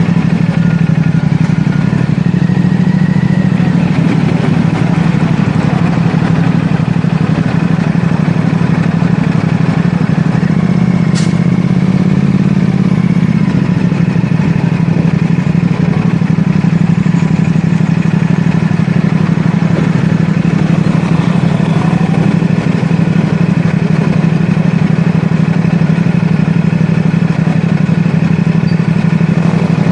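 CFMoto 450SR S parallel-twin engine running at a steady, unchanging pitch and level. A single short click sounds about eleven seconds in.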